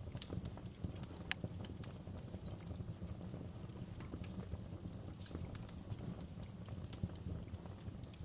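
Fire burning in a fireplace: a steady low rumble of flame with frequent small crackles and pops, one sharper pop about a second in.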